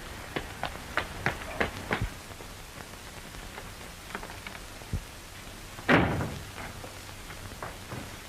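A quick run of about six sharp knocks in the first two seconds, a few fainter ones after, then one loud thump about six seconds in that dies away briefly, all over the steady hiss of an old film soundtrack.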